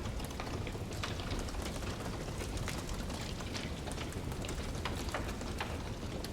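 Wood fire burning in a fireplace: irregular sharp crackles and pops several times a second over a steady low rumble.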